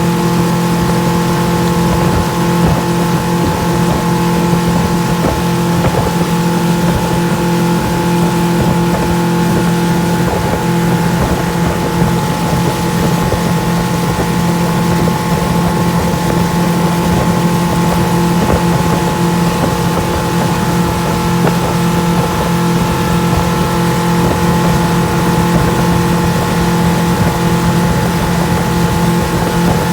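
Motorboat engine running at a steady, unchanging pitch, with an even rushing noise over it.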